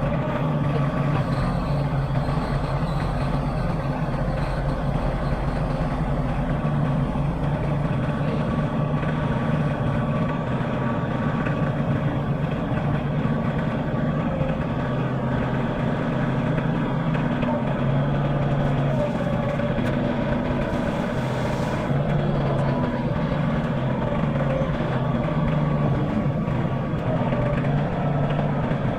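Tractor engine running steadily at a constant speed, a low hum with no pauses.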